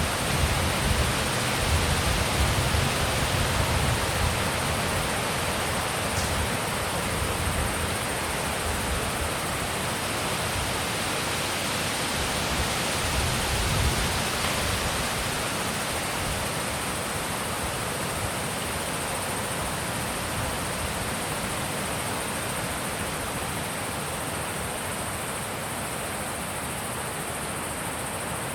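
Wind rushing steadily, with stronger gusts buffeting the microphone in the first few seconds and again about fourteen seconds in.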